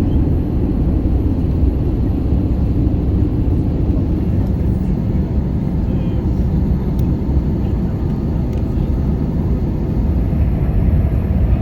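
Airbus A320 cabin noise in flight during the descent: a steady low rumble of engines and airflow heard from inside the cabin.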